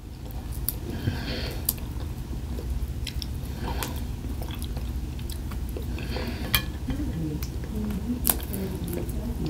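Chewing and eating at a table, with scattered light clicks and taps of food and dishes being handled, over a steady low hum.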